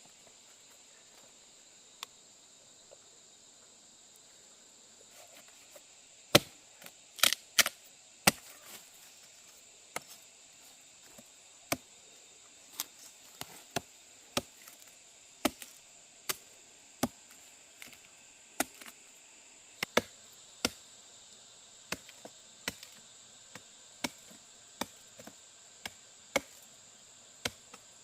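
Repeated sharp chopping blows with a blade, starting about six seconds in with a quick cluster of loud strokes, then going on at roughly one a second. A steady high insect drone runs underneath.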